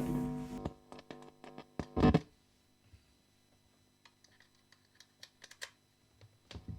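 Electric guitar chords played through a volume pedal: a chord right at the start and another about two seconds in, each ringing out and fading, then a third near the end. Faint clicks and ticks come in between.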